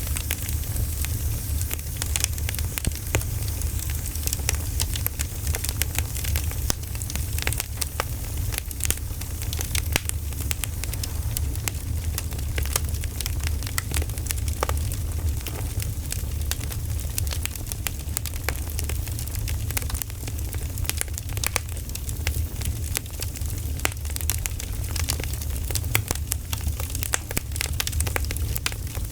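Campfire crackling: a steady low rumble of burning wood with frequent sharp crackles scattered throughout.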